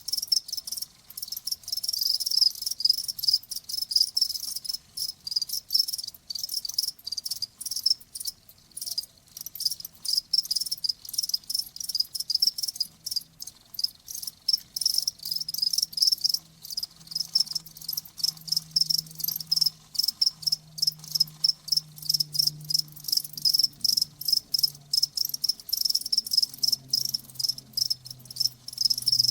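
Crickets chirping: short, high-pitched chirps repeating rapidly and steadily, several a second.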